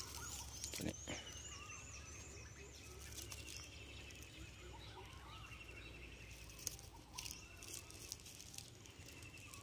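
Several wild birds calling: a high, quickly repeated rising-and-falling phrase in the first couple of seconds, and a short rapid trill that comes back every two to three seconds. A few faint knocks at about one second and again near seven seconds.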